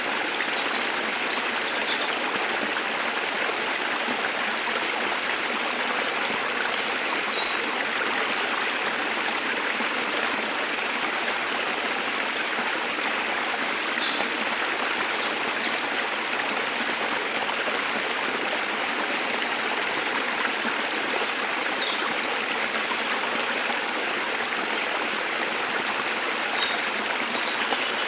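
Waterfall water rushing in a steady, even roar, with a few faint, short, high bird chirps scattered over it.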